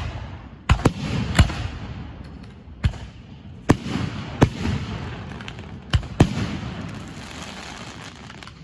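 Aerial fireworks shells bursting: about eight sharp bangs in irregular succession, each followed by a rolling echo.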